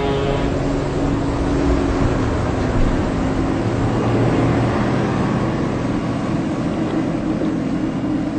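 A ship's engine running steadily under a wash of noise, with a low steady hum.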